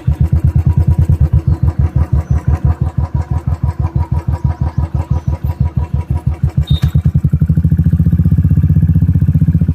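Royal Enfield Classic 350 single-cylinder engine with a loud aftermarket silencer, coming in suddenly and idling with evenly spaced thumps about ten a second. Near the end the revs rise and the thumps quicken and blend into a steadier note as the bike pulls away.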